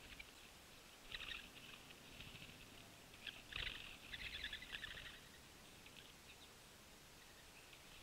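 Small birds calling in high, rapid chirps: a short burst about a second in and a longer run from about three to five seconds, over faint outdoor background noise. A soft low rustle sits under the longer run.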